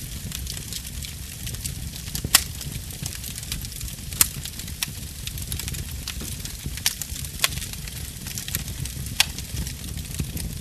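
Fire burning in a fireplace: a steady low rumble and hiss, crackling with sharp pops every second or two, the loudest about two seconds in.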